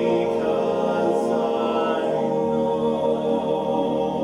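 Male vocal group singing a cappella in close harmony, holding one long chord, with a lower bass note joining about two and a half seconds in.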